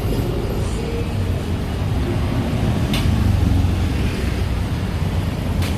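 Busy city street traffic: a steady low rumble of engines, with two short sharp clicks, one about three seconds in and one near the end.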